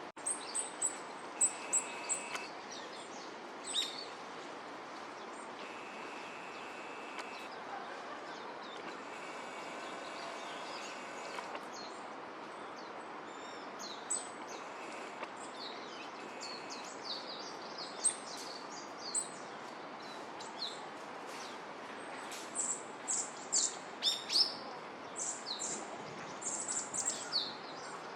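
Small songbirds calling: many short, high chirps, scattered, busiest just after the start and again in the last several seconds, over a steady background hiss.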